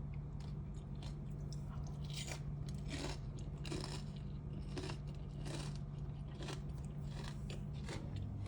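Close-up crunchy chewing and biting of singju, a Manipuri raw vegetable salad, in irregular crisp crunches, over a steady low hum.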